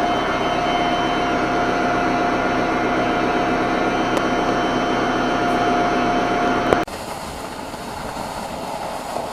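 Large Vogelsang rotary lobe pump running at its top speed of 1770 RPM, a loud steady mechanical run with a steady whine. About seven seconds in, the sound drops abruptly to a quieter steady noise.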